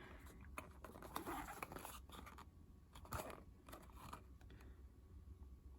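Faint crinkling and scraping of toy-car packaging being handled and opened, with a few scattered small clicks.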